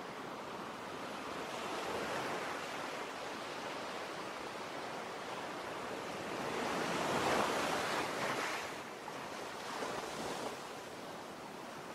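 Sea surf: a steady hiss of waves washing in, swelling into a louder wave about seven seconds in and a smaller one near ten seconds.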